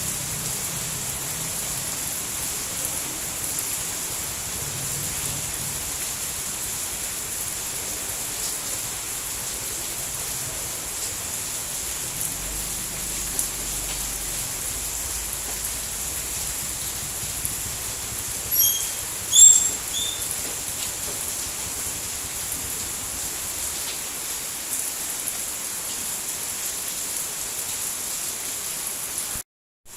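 Steady rain falling, an even hiss. A few short high chirps sound a little past the middle, and the sound cuts out for a moment just before the end.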